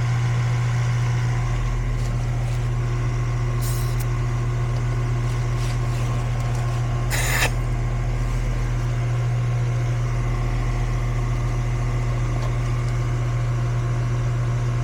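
Goodman air-conditioning system running after repair, giving a steady low electrical hum, with a short burst of hiss about seven seconds in.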